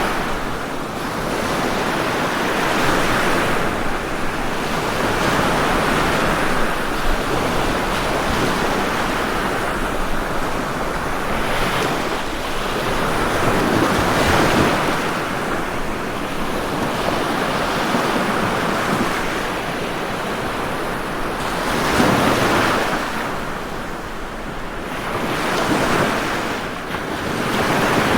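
Ocean waves breaking on a shore, a continuous wash of surf that swells and falls back every few seconds.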